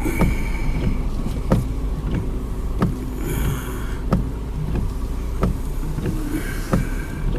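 Steady low rumble of storm wind around a car, with a sharp click about every 1.3 seconds and a few brief high squeaks.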